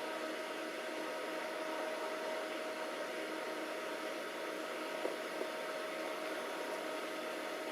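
Alienware Aurora Pentium 4 gaming desktop's cooling fans running steadily at high speed after power-on, a constant rush of air with a steady hum in it. The machine is running but giving no video. There are two faint ticks about five seconds in.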